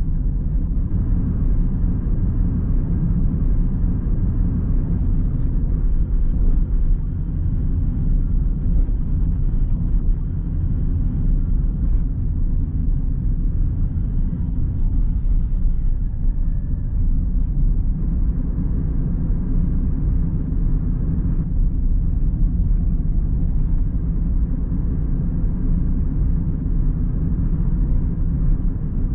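A car being driven: a steady low rumble of road and engine noise with no sharp events.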